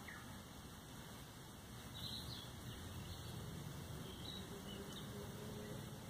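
Faint bird calls: a few short chirps from about two seconds in, over a low rumble.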